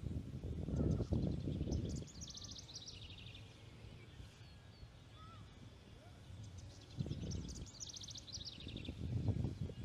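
Osprey calling: two series of rapid high chirps, each falling in pitch over about a second and a half, the first about two seconds in and the second about seven seconds in, over a low rumble of wind noise.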